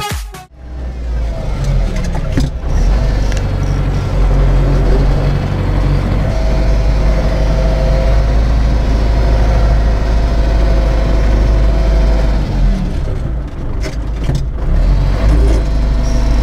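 A farm tractor's diesel engine running steadily with a deep drone.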